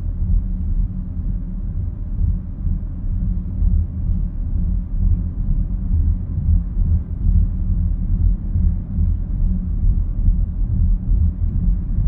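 BMW X7 on Hankook Dynapro HPX tyres heard from inside the cabin while driving: a steady, low droning hum and rumble of tyre and road noise. The owner finds it irritating and cannot tell whether it is road noise or a resonance, since the dealer found the suspension, bearings, tyres and alignment in order.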